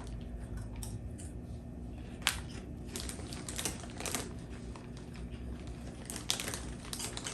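Scattered soft crunches and crinkles of snack chips being eaten and a chip bag being handled, with one sharper crack about two seconds in.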